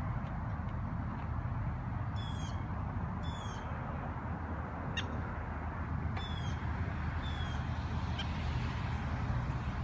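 Bird calling from the lakeside: about four short, high calls, each sliding downward in pitch, spaced a second or more apart, over a steady low rumble.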